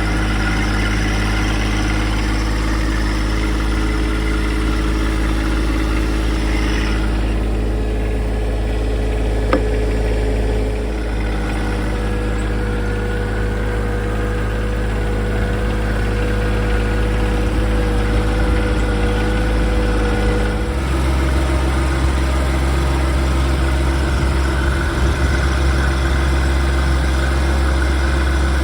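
John Deere 2025R compact tractor's three-cylinder diesel engine running steadily; its low note shifts about two-thirds of the way through.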